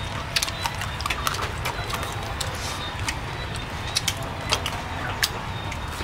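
Crunchy chewing of fried mouse, heard as sharp, irregular crunches and crackles several times a second, over a steady low rumble.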